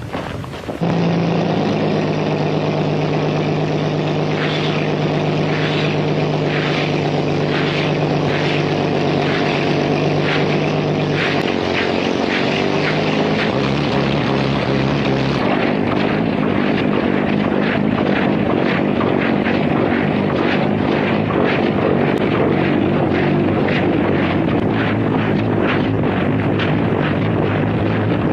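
Early experimental propeller flying machine's engine and propellers running steadily after start-up. The pitch of the hum steps down about halfway through.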